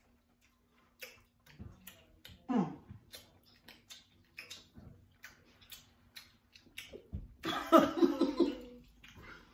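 Mouth sounds of people chewing sticky, intensely sour candy: small wet clicks and smacks, with a short falling vocal groan about two and a half seconds in. Near the end comes the loudest part, a man's voice breaking out in a pulsed, laugh-like cry as he reacts to the sourness.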